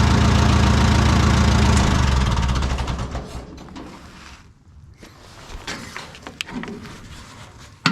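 Oliver 66 Standard tractor engine running steadily, then shut off about two seconds in and running down to a stop. A few light clicks follow, with one sharp knock near the end.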